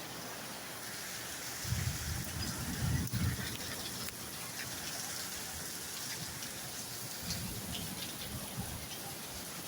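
Steady hiss of heavy storm rain and wind, with low rumbling gusts buffeting the microphone about two seconds in and again faintly near the end.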